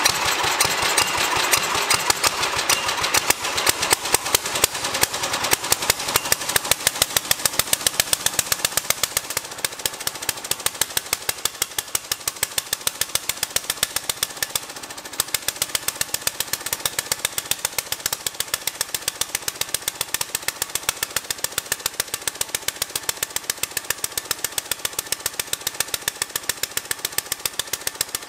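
Old small engine of a homemade WW2-era garden tractor running with a steady train of sharp, evenly spaced firing pops, just after being rope pull-started for the first time in almost 20 years. Its mixture screws are not yet set. The running settles a little quieter after the first several seconds.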